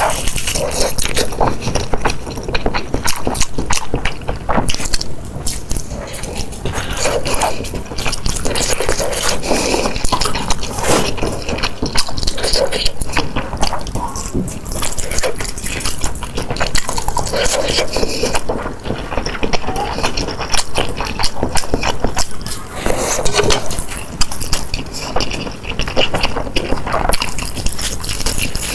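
Close-miked eating sounds: continuous wet chewing, smacking and slurping, dense irregular mouth clicks throughout.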